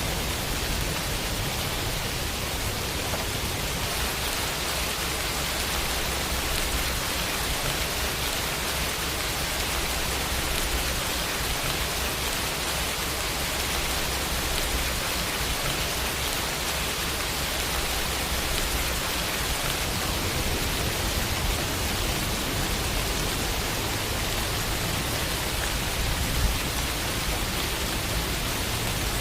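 Steady rain falling on a window, an even hiss of drops with a faint low rumble underneath. One slightly louder drop or tap stands out about three quarters of the way through.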